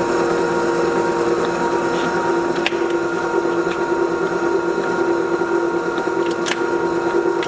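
LeBlond hollow-spindle engine lathe running under power with a steady gear whine, its carriage traversing on longitudinal power feed. A couple of light clicks come through, about a third of the way in and near the end.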